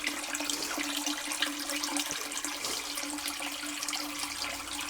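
Water from a sump pump's hose running into a toilet as it refills after a flush, a steady rush of water with a constant hum underneath.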